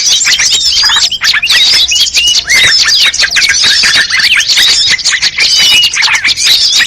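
Dense chorus of many small songbirds chirping and calling over one another, a rapid, unbroken stream of high, quick chirps and short whistles. It is a bird-lure ('master pikat') mix of calls used to draw in birds such as bulbuls and prinias.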